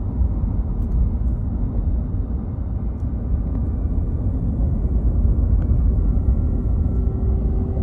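2021 Ram 1500's 5.7 L Hemi V8 eTorque truck running, a steady low rumble with a faint steady whine above it. The whine comes from a failing belt tensioner pulley.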